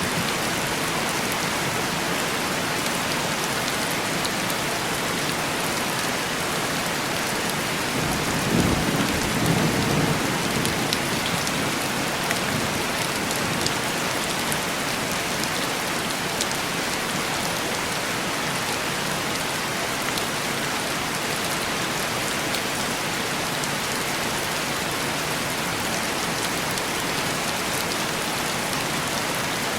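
Steady heavy rain on a window pane. A low rumble of thunder swells and fades about nine seconds in.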